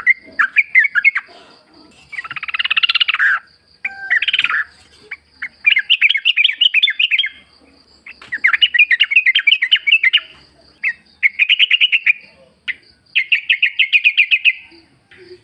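Yellow-vented bulbul singing: phrase after phrase of quick chattering notes, each phrase about one to two seconds long, with short pauses between. A faint steady high-pitched tone runs beneath.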